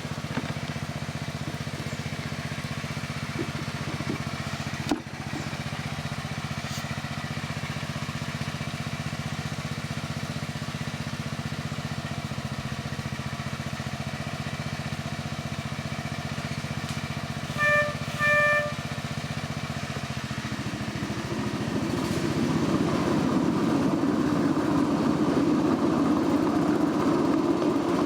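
Small engine of a miniature ride-on train running steadily, then two short toots of the locomotive's horn, the usual signal that the train is about to move forward. A few seconds later the train pulls away and the running noise gets louder and rougher.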